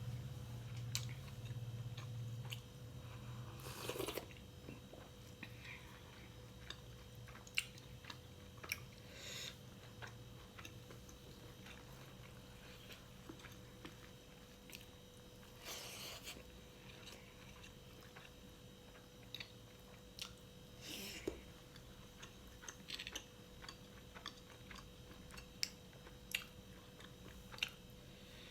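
Close-up sounds of someone chewing and biting fried pork: soft mouth noises broken by scattered sharp clicks and crunches, with a few longer noisy smacks.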